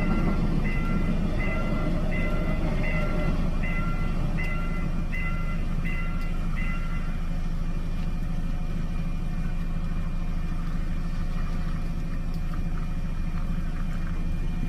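Railway level-crossing warning bell chiming over and over, about once every 0.7 s, over the low steady rumble of a passing train. The chime stops about seven seconds in, leaving the rumble.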